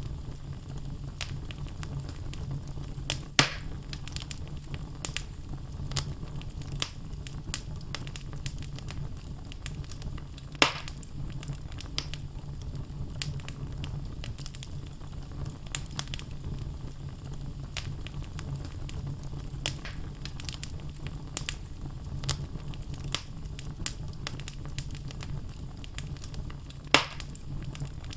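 Wood fire burning in a fireplace: logs crackling with frequent small clicks over a steady low rumble, and three louder pops, at about 3, 11 and 27 seconds in.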